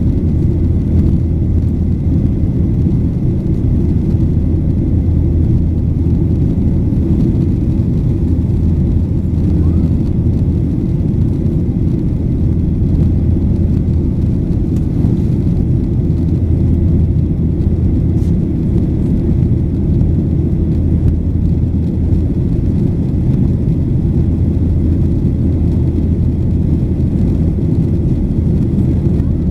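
Steady low rumble of a Boeing 737-800's CFM56-7B engines and airflow, heard inside the passenger cabin, holding level without change.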